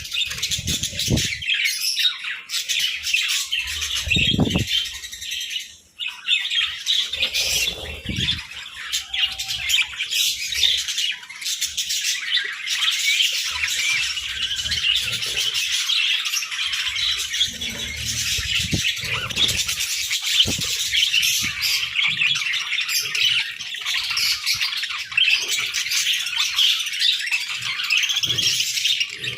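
A flock of budgerigars chirping and chattering nonstop, with a few low thumps early on.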